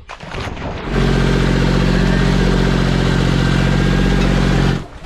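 Tractor engine running steadily at a low, even pitch. It cuts off suddenly near the end.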